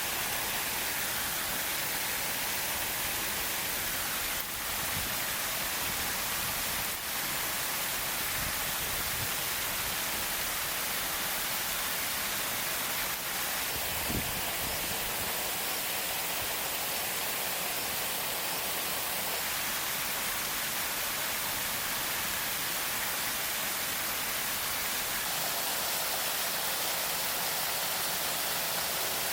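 Waterfall: an even, steady rush of falling water.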